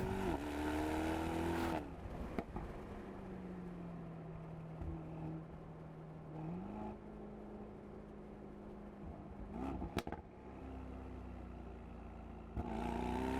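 Mercedes-AMG SL 63's 4-litre twin-turbo V8 running as the car moves. The engine note falls at the start, settles to a low steady drone with a short step up partway through, and climbs again near the end, with a couple of sharp clicks in between.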